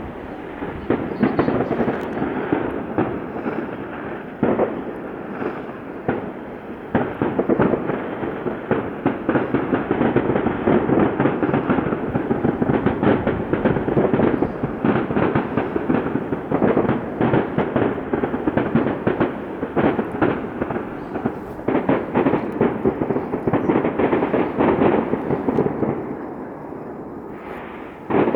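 Aerial fireworks display: a dense, continuous barrage of bursts and crackles, thinning out briefly near the end before another burst.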